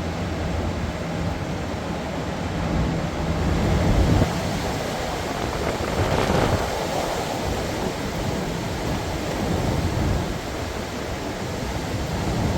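Storm wind gusting hard and blowing across the microphone, with a gust swelling about six seconds in. A low steady hum underneath stops about four seconds in.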